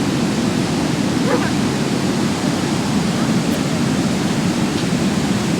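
Steady rushing roar of a flood-swollen river, an even wall of water noise that neither rises nor falls.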